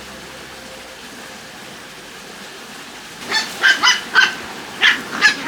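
Waterfowl calling: a quick run of about seven loud, short calls begins about three seconds in, over a quiet steady hiss.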